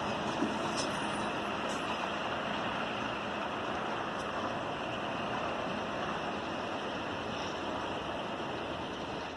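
Freight train running by with a steady, even rumble and hiss of its wheels and running gear, with a couple of faint clicks about a second and two seconds in.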